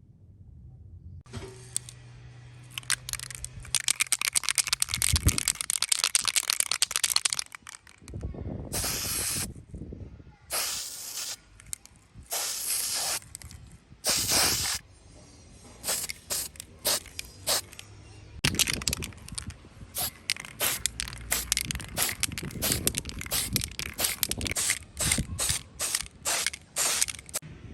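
Aerosol can of heat-resistant black spray paint spraying. A long spray of about six seconds, then several separate one-second bursts, then a run of many short quick bursts.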